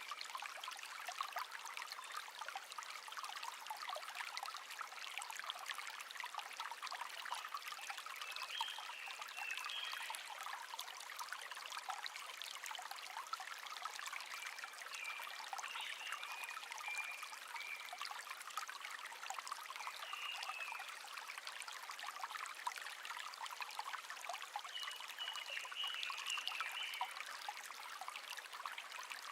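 Shallow brook babbling and trickling steadily. Short bird twitters sound above it every few seconds.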